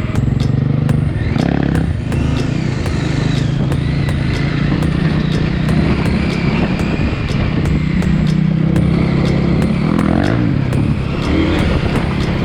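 KTM 890 Adventure R's parallel-twin engine running under way at fairly steady revs. The throttle eases off briefly about two seconds in and again near the end, with some clatter over it.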